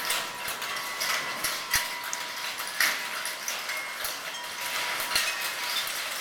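Hail falling: a steady hiss crossed by many irregular, sharp hailstone impacts.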